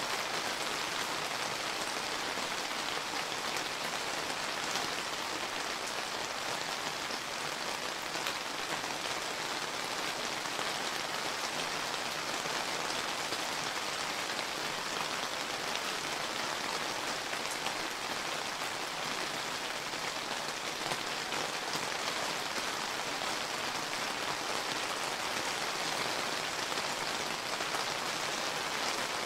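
Steady summer rain pattering down, an even hiss of many fine drops with faint individual drop ticks.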